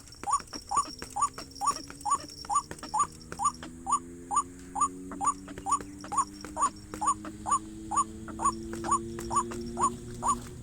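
White-breasted waterhen calling: a short rising note repeated steadily, about twice a second.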